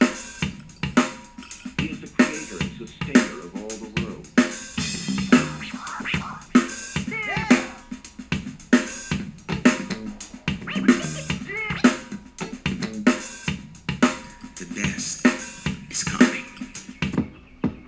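Drum-heavy music with a steady beat, played through a Proton Tempo wireless speaker for a sound test. Near the end the treble drops away.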